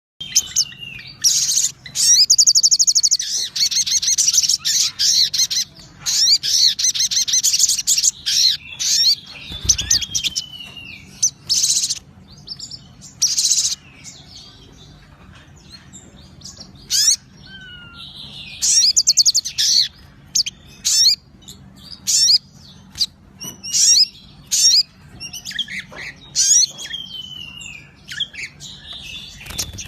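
A sogon songbird singing vigorously in repeated bursts of fast, chattering trills, with a few descending whistled notes between them.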